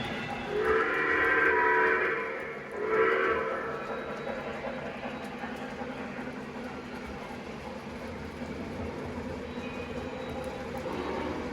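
Model train locomotive's sound system sounding its signal, one long blast then a short one, over the steady sound of the locomotive running.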